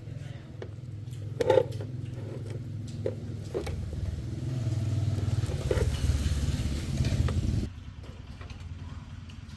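A motor running with a low, steady hum that grows louder for a few seconds past the middle and then drops back abruptly, with a few sharp knocks, the loudest about a second and a half in.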